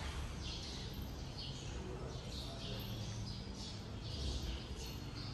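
Small birds chirping, short high chirps repeating about twice a second over a low background rumble.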